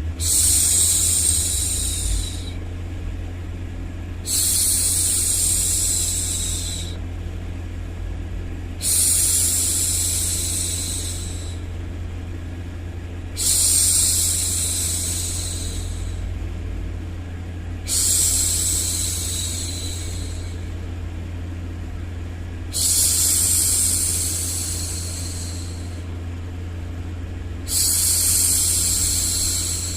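A woman's voice shushing, a long "shhh" of about two and a half seconds repeated seven times with short pauses between. A steady low rumbling noise runs underneath as a soothing hush for a baby.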